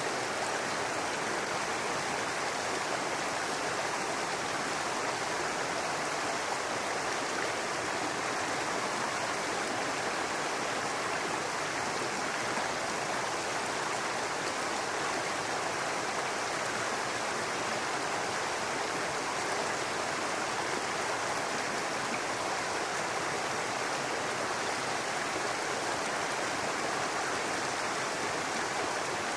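A small brook babbling and running over rocks, a steady even rush of water.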